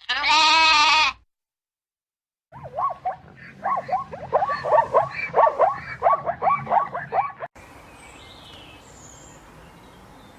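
A loud bleat lasting about a second, then a cut to dead silence. From a couple of seconds in, a fast run of short, sweeping animal calls, several a second, stops abruptly and gives way to a faint steady background with a few faint high chirps.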